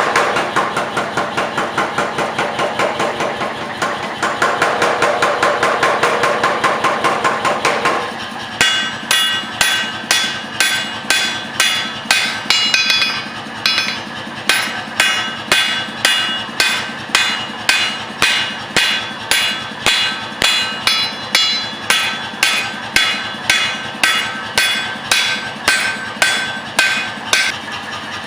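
Hammering hot EN45 steel while forging an axe drift: a fast, dense run of power hammer blows for about the first eight seconds, then slower separate hammer strikes, about one and a half a second, each ringing.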